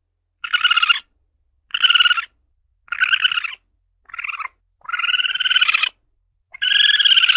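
Asian palm civet (luwak) calling: six short calls in a row, about a second apart, the later ones longer.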